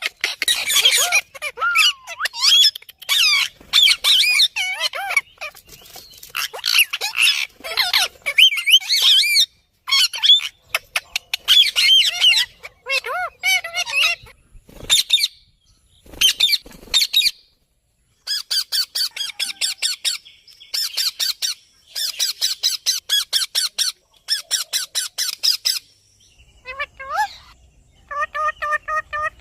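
Parrots squawking and chattering in shrill, wavering calls. About two-thirds of the way through, the calls turn into fast runs of short repeated notes, and near the end comes a string of evenly pitched pulsed notes.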